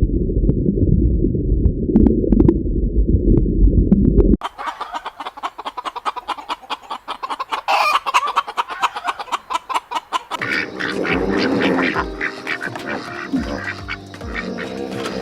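A muffled low rumble for the first four seconds or so, then a flock of birds calling in a dense, rapid chatter for about six seconds, followed by steadier pitched calls or tones near the end.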